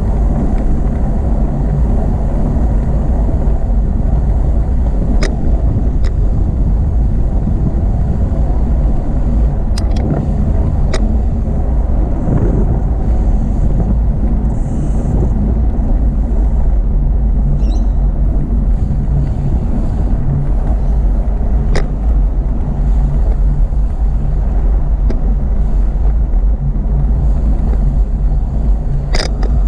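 Steady low rumble of wind and road noise from a bicycle on the move, picked up by a camera riding along on the bike, with a few sharp clicks from bumps.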